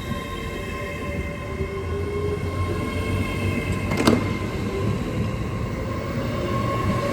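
LNER Class 801 Azuma electric train pulling out, its traction equipment whining in several steady tones that slowly climb in pitch as it gathers speed, over a low rumble. A single sharp click about four seconds in.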